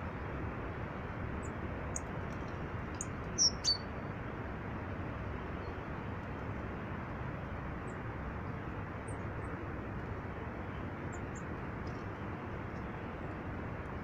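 Small birds giving short high chirps, two louder ones about three and a half seconds in and a few faint ones later, over a steady rushing background noise.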